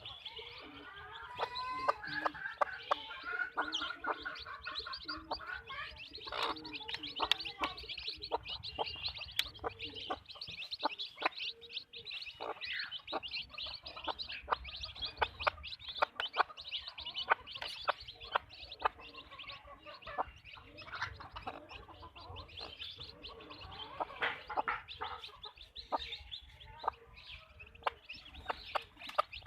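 A flock of backyard hens clucking and calling continuously, with many short sharp taps mixed in throughout.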